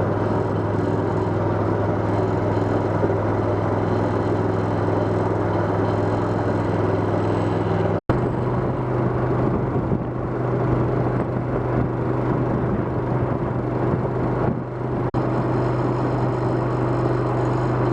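A motor running steadily with a low, even hum. About eight seconds in it cuts off abruptly and comes back at a slightly higher pitch.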